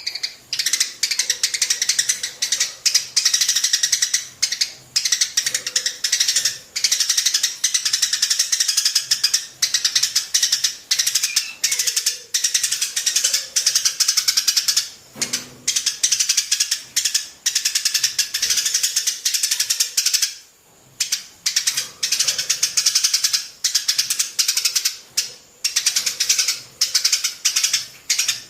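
Small birds chattering, a fast unbroken stream of short, high chirps with a couple of brief pauses.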